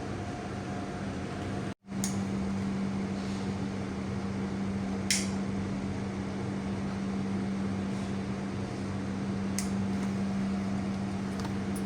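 A steady low hum with a few faint light clicks, briefly cut to silence just under two seconds in.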